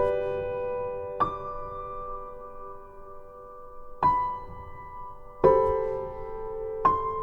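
Slow background piano music: five chords struck a second or more apart, each ringing on and fading.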